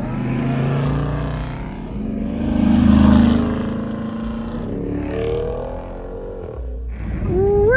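Cars driving away down the road, engines running with a low rumble; one gets louder about three seconds in, and an engine revs up briefly around five seconds in.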